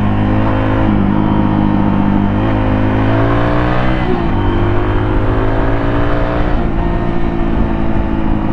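Suzuki DR200's single-cylinder four-stroke engine running through its stock exhaust while riding: steady, then revving up for a moment before the pitch drops with a gear change about four seconds in, then pulling steadily again.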